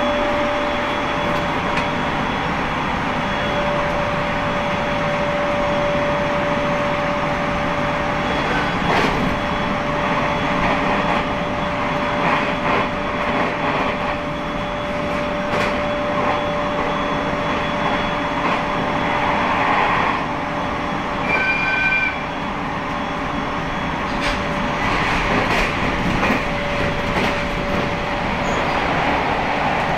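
Steady running noise of an Aomori Railway train heard from inside the car, with a continuous hum and occasional clicks. A brief high tone sounds about 21 seconds in.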